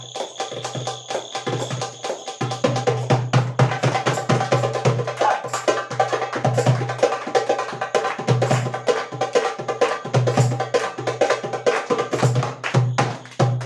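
Bongo drums played in a fast, dense rhythm of hand strikes over a recorded song, with a bass line pulsing underneath. A steady high-pitched tone sounds through the first two seconds or so.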